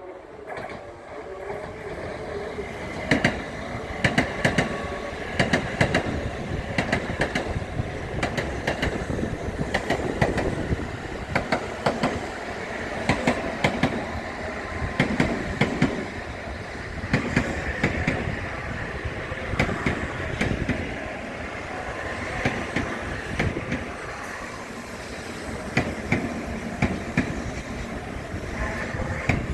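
A Tokaido Shinkansen train rolling through the station. Its wheels clack over the rail joints in a long series of repeated knocks over a steady rail rumble.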